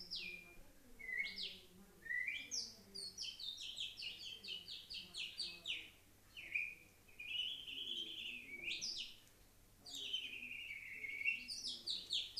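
A girl whistling a nightingale imitation: long sliding whistles broken up by quick runs of short, falling chirps, about five a second.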